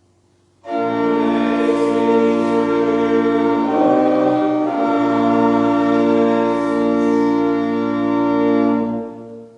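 Church organ playing loud, sustained chords, with a brief change of chord near the middle, then fading out near the end.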